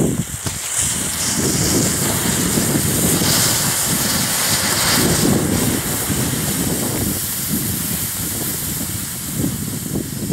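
Wind buffeting the microphone in a steady rumble, with a high hiss over it that grows louder about a second in and eases off a few seconds later.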